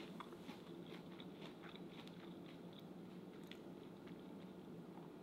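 Faint chewing of a bite of fried, pretzel-coated white bass, with small scattered wet clicks and crunches from the mouth.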